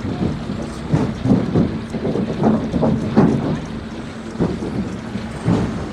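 Log-sorting machinery running: a steady mechanical hum with irregular heavy knocks and clunks.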